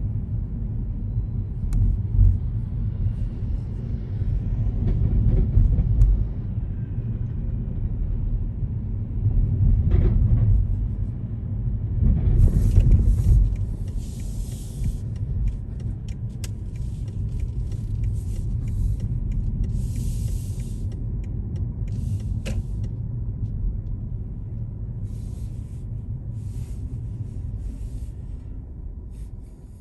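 Car on the move: a steady low rumble of engine and road noise, with short bursts of hiss coming and going through the middle part.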